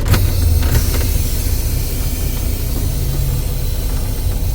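Semi truck's diesel engine running with a low rumble and a steady hiss, heard from inside the cab, with a sharp knock near the start.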